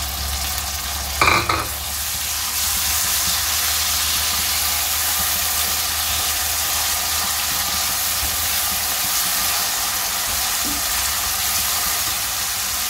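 Chopped onion and freshly added tomato frying in oil in a pot, with a steady sizzle while a spatula stirs them; the sizzle grows a little louder about two and a half seconds in. A brief clatter, the loudest sound, comes about a second in.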